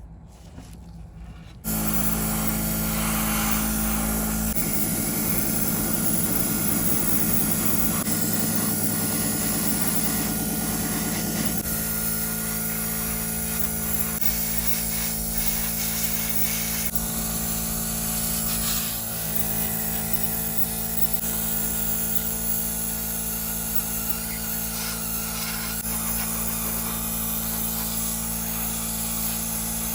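A power tool running steadily, starting abruptly about two seconds in, its pitch shifting slightly a couple of times as the load changes.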